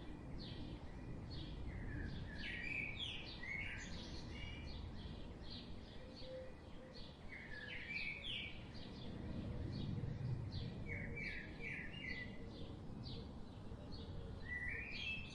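Small birds chirping: a continuous run of short, high chirps, often several in quick succession, over a low background rumble.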